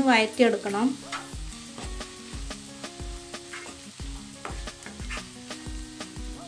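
Wooden spatula stirring chopped shallots, onions and green chillies sautéing in oil in a nonstick kadai: sizzling with regular scrapes and soft knocks against the pan about twice a second. A short wavering, voice-like pitched sound, the loudest thing, is heard in about the first second.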